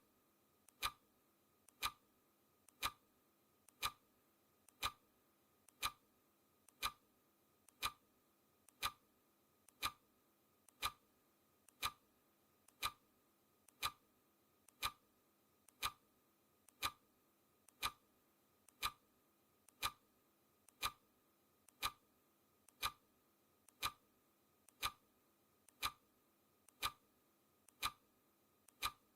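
Clock ticking sound effect of a countdown timer: one sharp tick each second, each with a much fainter click just before it.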